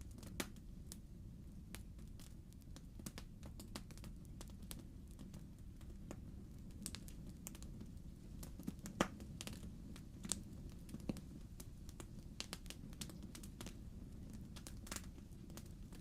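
Wood fire crackling in a fireplace: irregular pops and snaps of burning logs over a low steady rumble, with one louder pop about nine seconds in.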